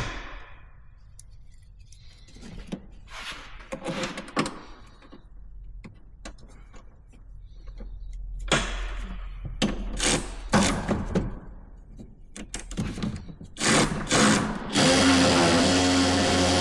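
Scattered clinks and scrapes of hand tools on metal engine parts, then about 15 seconds in a handheld power tool's motor starts and runs steadily.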